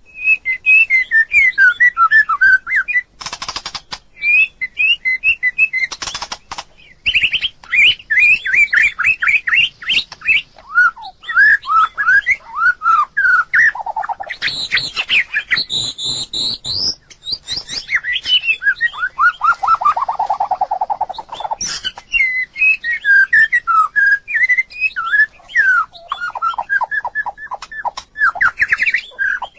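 White-rumped shama singing: fast, varied runs of whistled and chattering notes with short pauses between phrases. Two brief harsh, noisy notes come about three and six seconds in, and a lower buzzy phrase about two-thirds of the way through.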